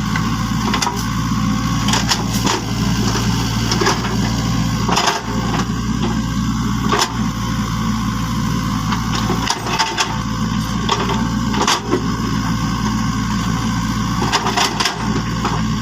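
A small motor running with a steady low hum, with scattered clicks and knocks on top.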